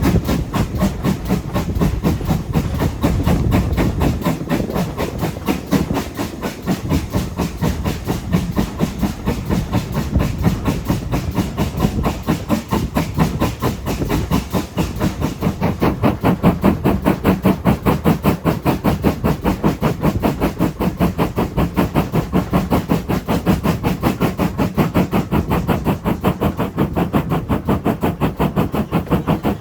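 Steam train under way, with a fast, even beat over a steady rumble and hiss.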